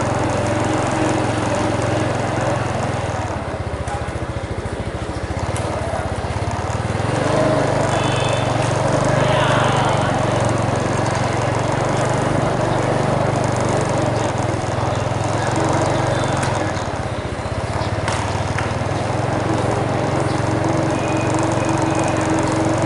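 A small engine running steadily, with a low, even drone throughout.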